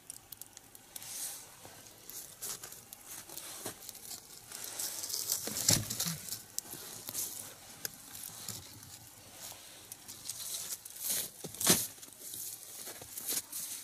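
Burning log fire crackling and sizzling, with irregular pops and snaps, a few louder ones about six seconds in and near twelve seconds.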